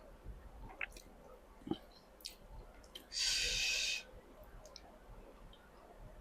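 A person eating: soft chewing with scattered mouth clicks, and one loud sucking slurp lasting about a second, a little past halfway.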